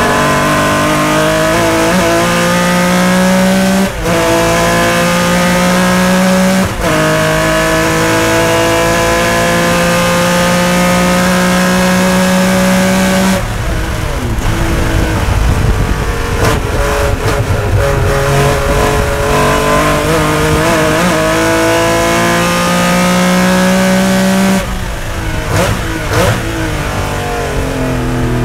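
Porsche 911's air-cooled 3.0-litre flat-six at racing speed, heard from inside the cockpit: the engine note climbs at full throttle with two quick upshifts about 4 and 7 seconds in. About halfway it lifts and the note falls and wavers under braking, then climbs again before dropping once more near the end.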